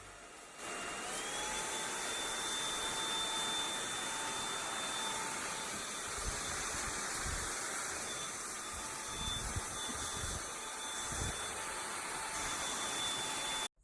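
Samsung POWERbot R7040 robot vacuum running: its suction motor starts with a rising whine about a second in, then holds a steady rushing whine, with a few low thumps partway through. The sound stops abruptly near the end.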